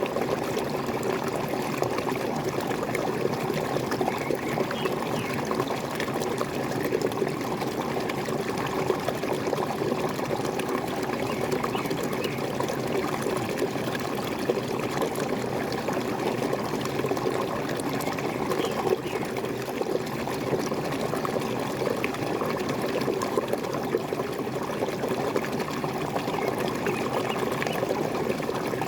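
Small waterfall: water falling and splashing steadily, a continuous pouring, trickling rush with no break.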